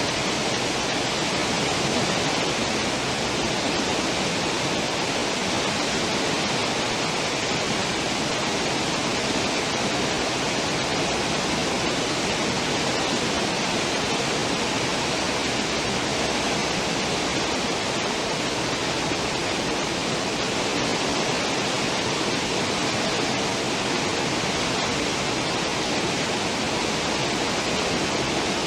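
Steady rush of churning water in a cruise ship's stern wake, an even hiss that does not change.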